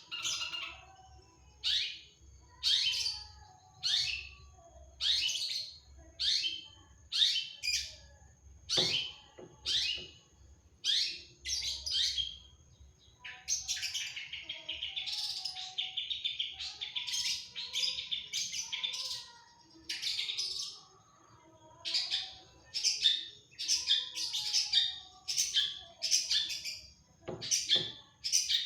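Long-tailed shrike (cendet) singing hard: a string of sharp, downward-sweeping notes about one a second. Through the middle it breaks into several seconds of continuous rapid chattering.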